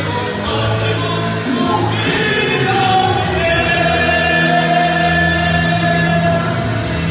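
Gospel song sung in choir-style harmony over band accompaniment, the voices holding long notes in the second half.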